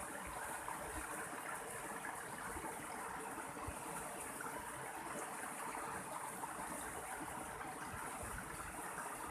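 Mountain stream of water flowing and splashing steadily.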